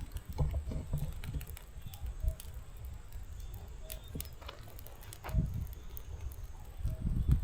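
Firewood burning in a fireplace: irregular crackles and pops over a low rumble of the flames, which swells twice in the second half.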